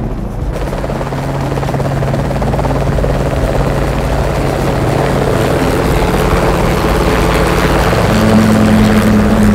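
Light helicopter's rotor and turbine-free piston engine running as it flies in close and sets down, growing steadily louder, with a steady low hum and a higher tone joining near the end.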